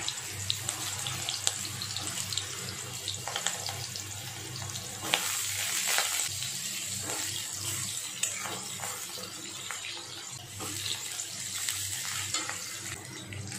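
Potato pieces frying in hot oil in a kadhai: a steady sizzle with scattered clicks and scrapes from a metal spatula moving them around.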